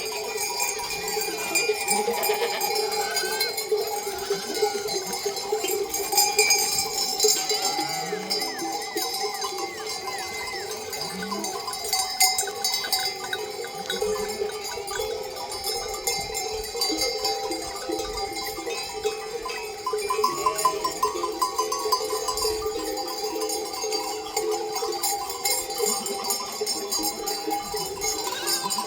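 Many bells on a flock of sheep ringing and clanking together without pause, with a few sheep bleating now and then.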